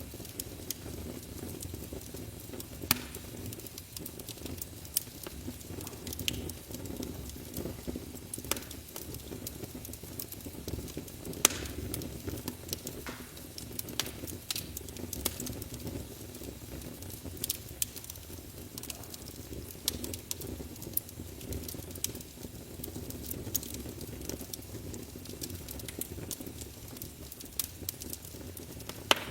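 Fire burning in a fireplace: a steady low rumble of flames with irregular sharp crackles and pops, the loudest about three seconds and eleven seconds in.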